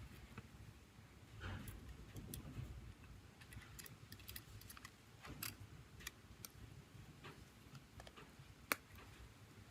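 Faint, irregular small clicks and taps of tools and phone parts being handled during a smartphone repair, with one sharper click near the end.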